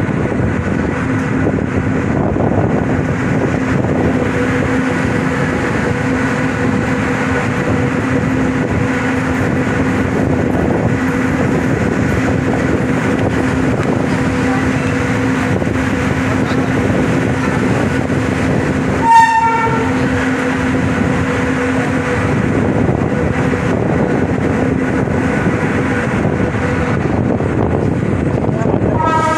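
Express train coach rolling through a station, heard from its open door: a steady running rumble with a steady hum. One short horn toot sounds about 19 seconds in.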